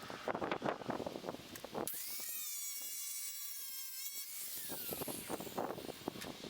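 Small electric power tool spinning up to a high whine, running steadily for about two seconds, then winding down in pitch. Knocks and scraping of parts being handled come before and after.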